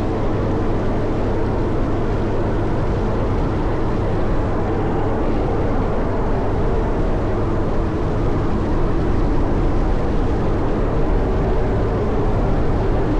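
Caterpillar 140M motor grader's diesel engine running steadily with an even low drone.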